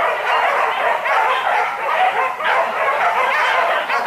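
A pack of hunting dogs barking and yelping together, many voices overlapping without a break.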